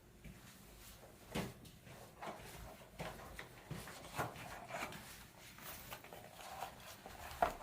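Scattered light knocks and clatter of pigment containers being picked up, moved about and set down while mineral pigments are searched out, with one sharper knock near the end.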